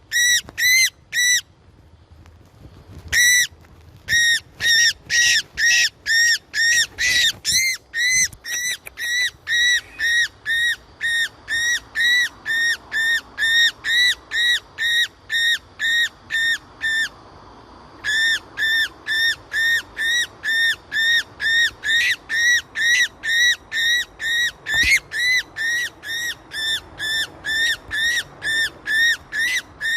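A trapped bird calling over and over: short, high, arching notes, about two a second, with brief pauses near the start and about halfway through.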